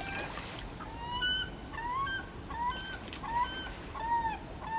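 Birds giving a run of short, arched, honking calls, roughly two a second, over a steady rush of water.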